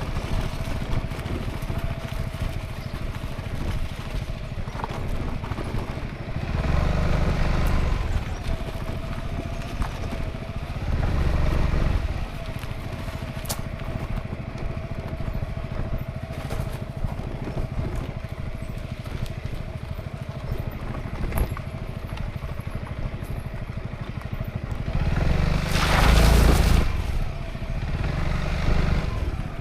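Honda ADV350 maxi-scooter's single-cylinder engine running on the move, with wind and road noise. The sound swells louder three times, most strongly in a short rush of noise near the end.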